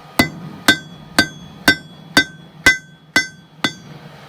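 Blacksmith's hammer striking hot mild steel on an anvil: eight even blows, about two a second, each with a short metallic ring.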